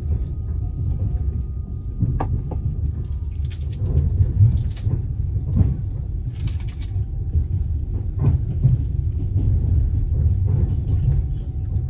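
Passenger train coach rolling along the track, heard from inside: a steady low rumble with a few sharp knocks from the wheels and several short hisses in the middle.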